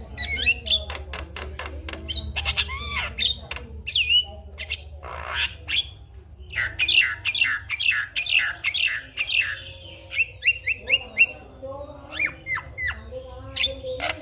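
Javan myna calling in a rapid, varied stream of harsh squawks, sharp clicks and quick whistled notes, with short pauses between phrases.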